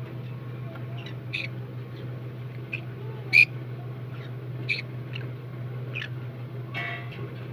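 A conure giving short, high squeaking chirps every second or so while it is hand-fed, with one loud chirp about halfway and a longer, fuller call near the end, over a steady low hum.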